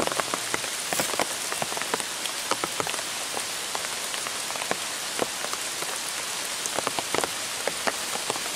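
Steady rain, with many sharp, irregular drop hits.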